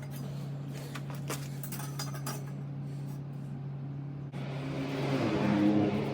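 Light metallic clinks and knocks as steel box section and tools are handled, over a steady low hum. About four seconds in, a louder rushing, scraping sound rises and then fades.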